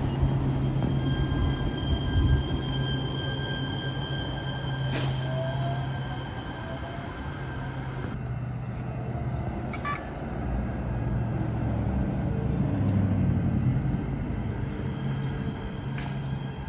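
Los Angeles Metro train running, a steady low rumble with two steady high tones over the first several seconds and a sharp click about five seconds in.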